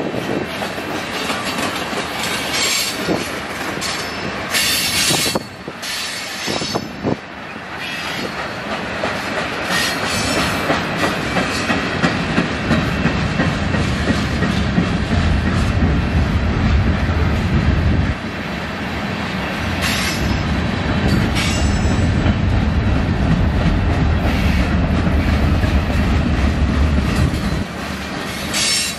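Freight train rolling past, its wheels clacking over the rail joints, with brief high wheel squeals now and then. The low rumble grows stronger about halfway through.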